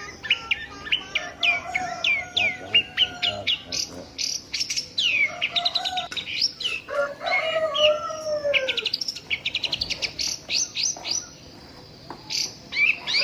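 Small birds chirping and singing in quick, dense runs of high, falling notes, with a few lower, longer falling calls mixed in; the chirping thins out briefly near the end.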